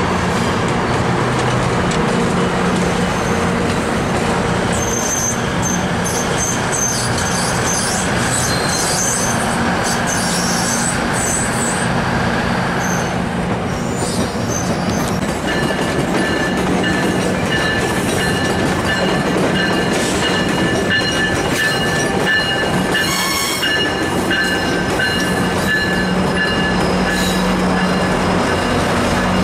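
Passenger trains rolling through station trackwork, steel wheels squealing in high thin tones over a constant low diesel rumble. A steadier set of squeal tones sets in around the middle and runs on.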